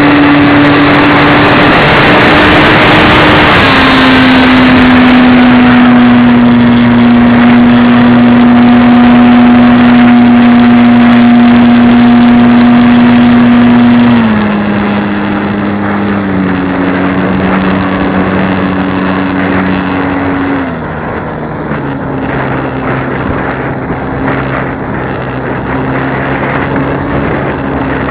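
Radio-controlled model airplane's motor running steadily in flight, with wind rushing past. The throttle is eased back in steps: the pitch drops a little about 3.5 s in, then drops and gets quieter about halfway through, and again about three quarters of the way through.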